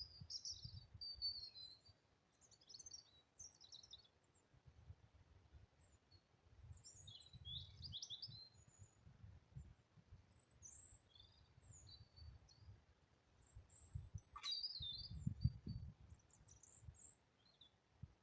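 Faint birdsong: several birds chirping and trilling in short phrases throughout. A low rumble comes and goes beneath it and is strongest about 15 seconds in, with a single sharp click just before that.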